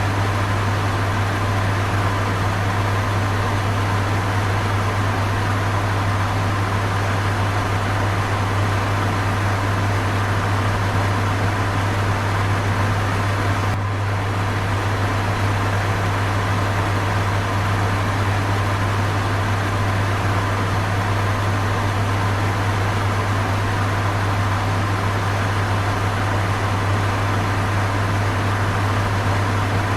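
Electric fan running steadily: an even rushing whoosh of air over a strong, constant low hum.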